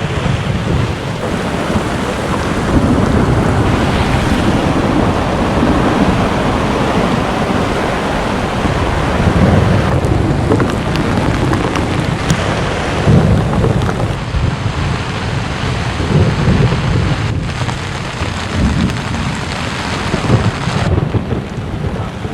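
Strong gusting wind with rain in a storm, the gusts buffeting the microphone in uneven low rumbles over a steady rushing hiss.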